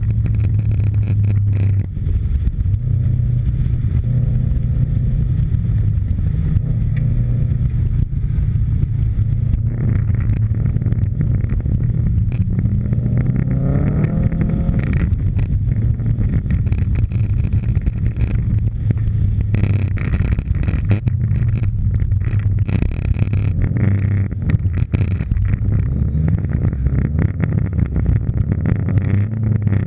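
Subaru Impreza STI's turbocharged flat-four boxer engine driven hard on a snowy track, revving up and down with gear changes, with one long rising rev about 12 to 15 seconds in.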